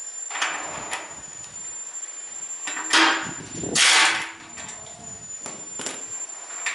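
Workshop work noises: scattered metal knocks and clinks, with two louder rasping, scraping bursts about three and four seconds in.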